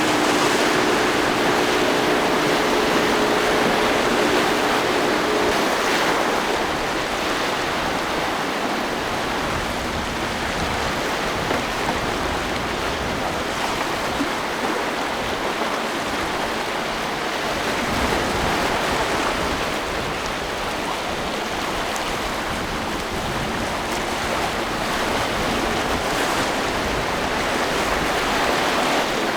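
Steady rush of surf and churning water at an inlet, with the steady hum of a boat engine during the first five or six seconds.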